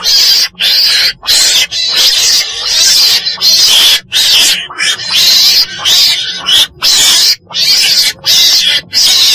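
Mustela weasel (chồn đèn) calling: harsh, raspy calls repeated in quick succession with short breaks between them.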